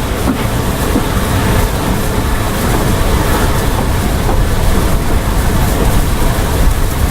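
Heritage railway train running along the track: a loud, steady rumble of wheels on rail with faint clicks over rail joints.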